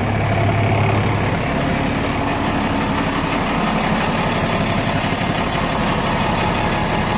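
Refrigerated van's engine idling with its Frigoblock fridge unit running, a steady mechanical hum.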